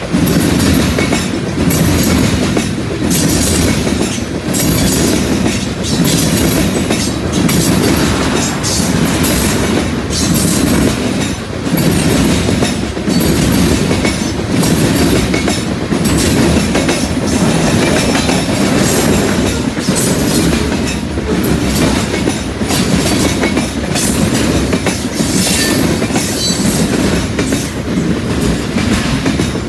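Freight cars rolling past close by, tank cars and then centerbeam lumber flatcars: a loud, steady rumble with the wheels clacking in repeated clusters over the rail joints.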